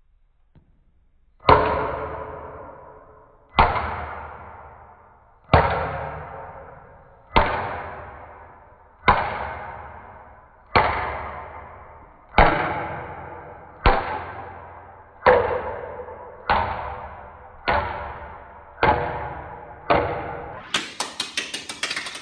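Hollow plastic toy bowling ball bouncing on a hard floor: about thirteen ringing knocks that come steadily closer together, ending in a quick rattle of small hits near the end.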